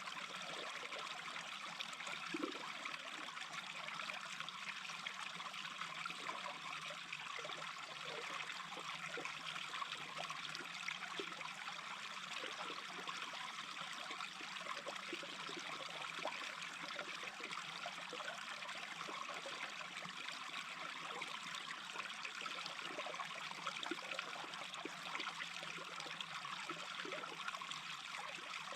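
Small brook babbling steadily: an even rush of running water with frequent small gurgles.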